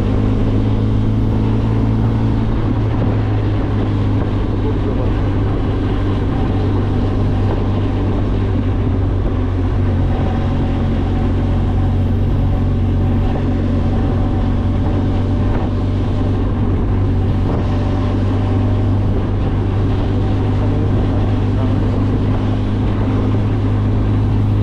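Benelli TRK 502X motorcycle's parallel-twin engine running at a steady pace while riding, a steady low hum with some wind and road noise.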